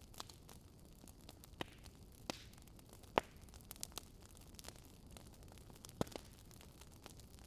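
Wood fire crackling: a soft steady hiss with irregular sharp pops and snaps, the loudest a little after three seconds and another at about six seconds.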